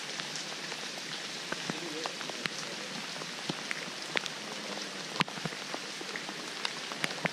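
Steady rain falling, a constant hiss with individual drops hitting nearby surfaces as irregular sharp ticks, the loudest about five seconds in.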